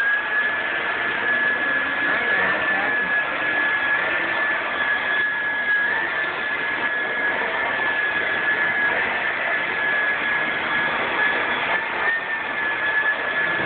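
Vacuum cleaner motor running steadily, a loud whine over a rush of air, its pitch wavering slightly now and then as it is pushed across the floor.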